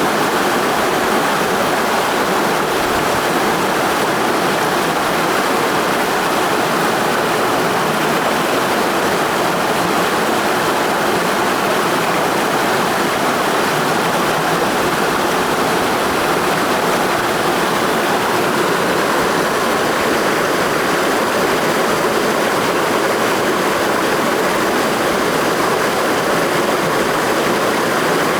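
Clear mountain stream flowing, a steady, unbroken rush of water.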